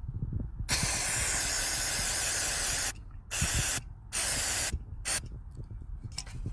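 Spray hissing in four bursts, one long burst of about two seconds and then three short ones, cleaning dirt off the dirt bike's gear-lever area, with light knocks of handling underneath.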